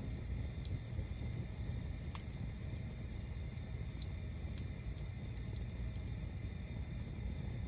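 Wood bonfire burning: scattered sharp crackles and pops at irregular moments over a steady low rumble.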